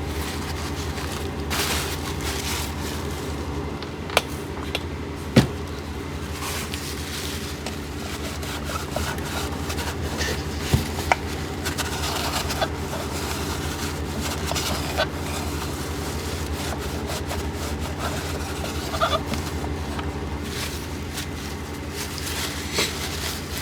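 Light scrubbing, rubbing and small clicks as a broken plastic power-vent fan housing is cleaned by hand, with a few sharper clicks about four and five seconds in. A steady low machine hum runs underneath throughout.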